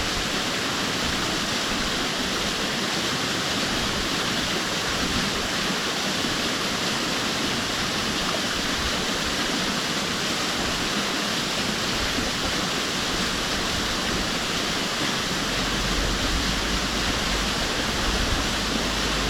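Hannawa Fudo Falls: falling water in a steady, even rush. A deeper low rumble joins it a few seconds before the end.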